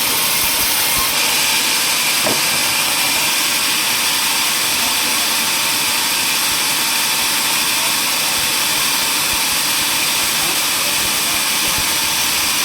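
Sawmill machinery running steadily: an even, unchanging machine noise with a lot of high hiss, with no cut starting or stopping.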